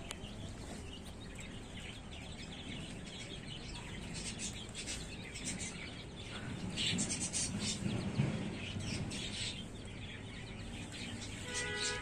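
Small birds chirping and tweeting in short bursts, about four seconds in and again from about seven to nine seconds in, over quiet yard background.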